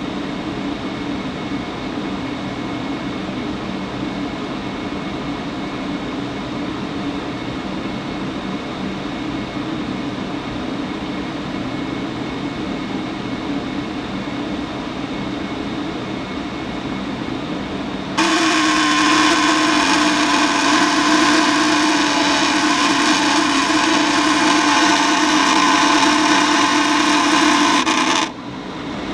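Furnace blower fan running with a steady hum. Partway through, a loud buzz with many overtones sets in suddenly, holds for about ten seconds, then cuts off abruptly: the fault noise the owner is trying to troubleshoot.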